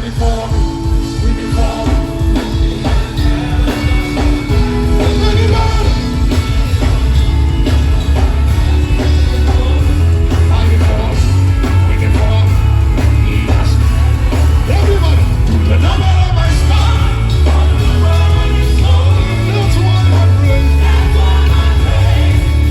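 Live gospel worship music: a band with singing, a fast driving beat at first, then heavy sustained bass from about five seconds in.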